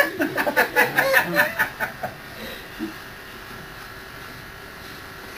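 Electric hair clippers buzzing steadily while shaving a man's head. For the first two seconds a burst of laughter rides over the buzz.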